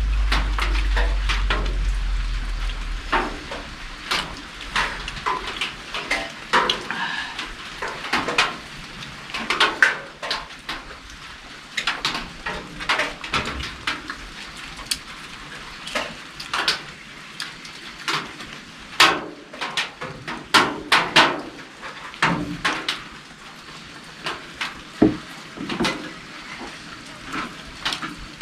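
Irregular clinks and knocks of plates, bowls and utensils being handled during a meal, over the steady hiss of rain.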